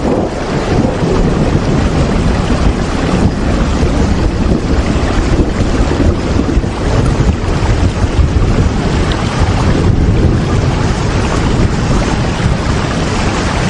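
Steady heavy rain, an even, unbroken hiss with a deep rumble beneath it.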